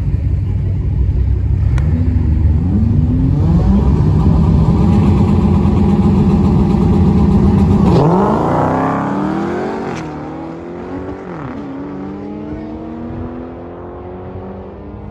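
Dodge Challenger's engine on a drag strip launch: revs climb and are held high on the line for a few seconds. About eight seconds in the car launches, the engine note rising through several upshifts, then fading as the car runs away down the strip.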